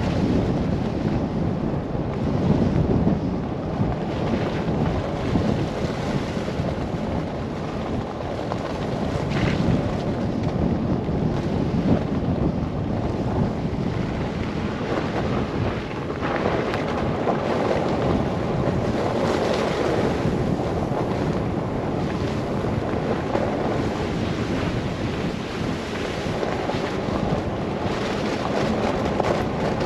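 Blizzard wind rushing and buffeting the microphone, a steady noise that swells and eases in gusts.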